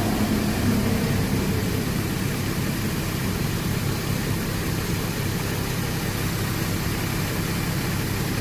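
Chevrolet Trailblazer engine idling steadily, heard up close with the hood open.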